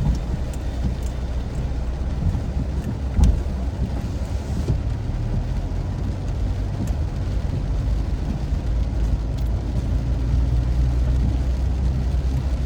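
Steady low rumble of a car driving, heard from inside the car, with one thump about three seconds in.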